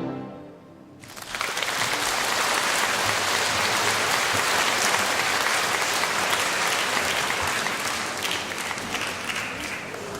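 Concert audience applauding, a dense clapping that starts about a second in, just after the orchestra's final chord dies away, and thins out toward the end.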